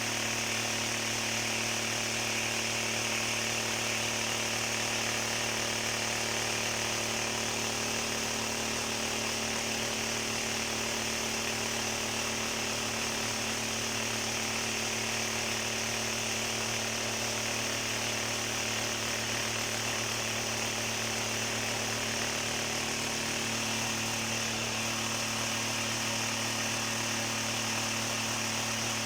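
An electric machine running steadily, a constant motor hum with a higher hiss that does not change in speed or level.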